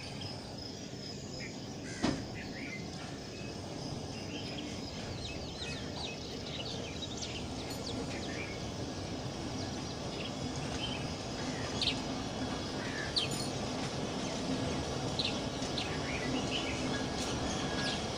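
Small birds chirping from the trees beside the platform, over a steady low rumble that slowly grows louder as the train begins to pull away. A single sharp knock about two seconds in.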